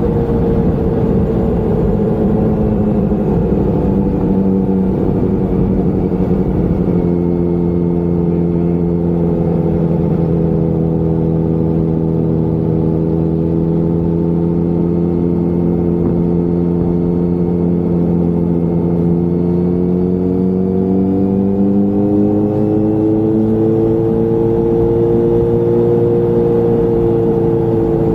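Motorcycle engine running at road speed, its note easing slightly lower over the first several seconds, holding steady, then rising as the bike picks up speed. Low wind rumble is heard, heaviest in the first seven seconds.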